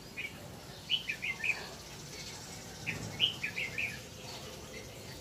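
Babbler chirping: short, high calls in quick runs of several, about a second in and again around three seconds in.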